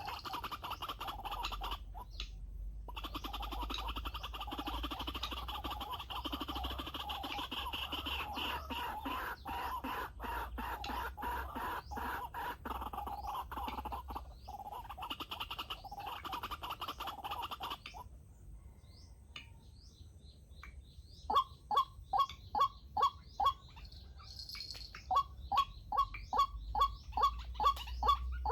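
White-breasted waterhens calling: a long stretch of dense, rapid clucking calls. After a brief lull come two runs of loud, separate rising calls, about three a second, near the end.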